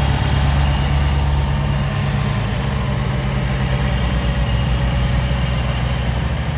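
Supercharged 6.2-litre V8 of a 2023 Camaro ZL1 idling just after a cold start, its idle easing down a little about two seconds in.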